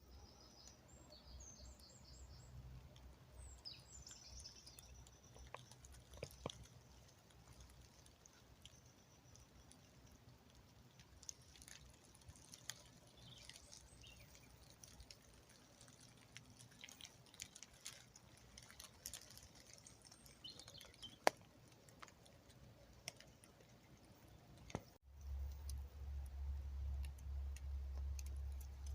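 Faint birds chirping and calling, with scattered small clicks and crackles. About 25 seconds in, the sound cuts and a steady low rumble takes over.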